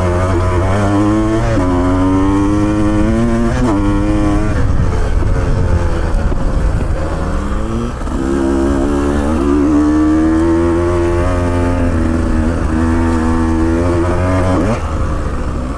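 Motorcycle engine being ridden off-road, its revs rising and falling repeatedly as the throttle is worked, over a constant low rumble.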